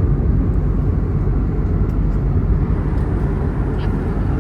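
Steady low rumble of cabin noise inside an Airbus A321neo airliner in flight: airflow and engine drone heard from a passenger seat.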